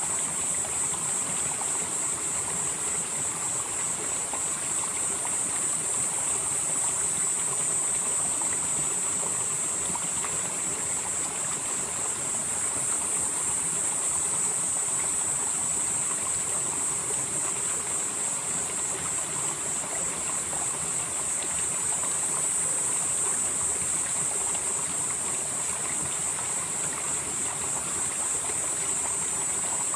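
Valley stream flowing steadily: a constant rush of water with a high hiss that slowly swells and fades every few seconds.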